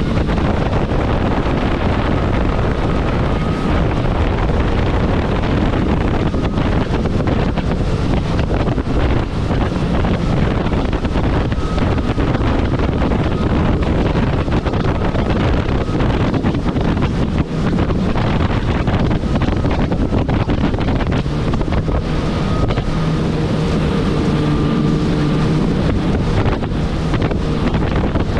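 Kawasaki jet ski running at speed on open water, with heavy wind rushing over the microphone and water spray. The engine's pitched hum comes through more clearly for a few seconds near the end.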